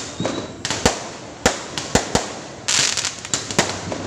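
Fireworks going off in a rapid, irregular series of sharp bangs, with a hissing crackle for about a second midway.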